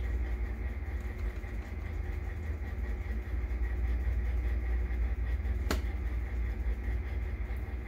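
Steady low hum and rumble of air-conditioning airflow in the building, with one sharp click about six seconds in.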